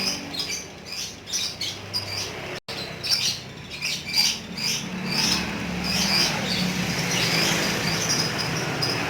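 Lovebird chattering in a long run of rapid, high, short chirps, the continuous 'ngekek' song, with a brief break about two and a half seconds in.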